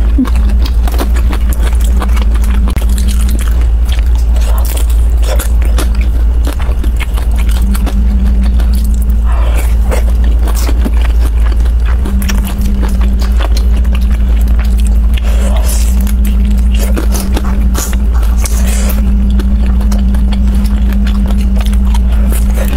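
Close-miked eating sounds of dumplings: biting and chewing, with scattered short clicks, over a steady low hum.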